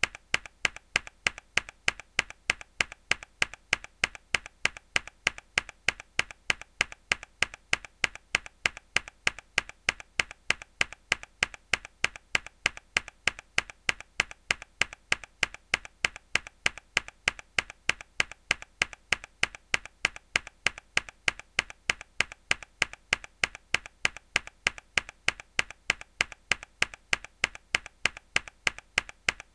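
A hard key press on a mechanical keyboard, looped: one sharp click repeating at an even, fast rate, each press the same.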